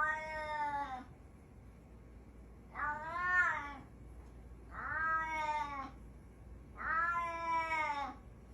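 A domestic cat yowling: four long, drawn-out yowls, each about a second long and roughly two seconds apart.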